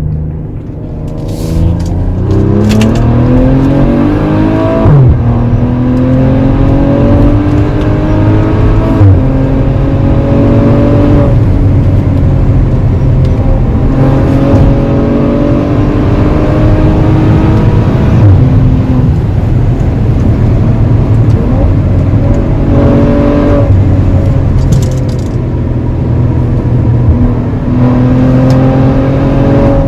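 Maserati Levante GranSport SQ4's twin-turbo V6 accelerating hard through the gears, its pitch climbing and then dropping back at each upshift, several times in a row. A short sharp crack comes with some of the shifts.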